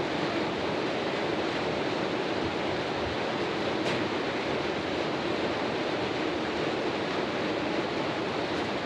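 Steady rushing noise with a faint click about four seconds in.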